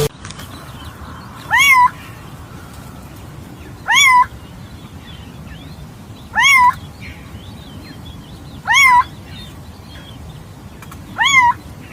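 Indian peafowl (peacock) giving its loud, cat-like call five times, evenly spaced about two and a half seconds apart, each a short rising-then-falling wail.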